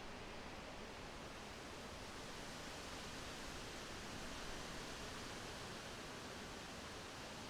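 Wind blowing through forest trees, a steady rustling hiss of leaves that swells slightly a little past the middle.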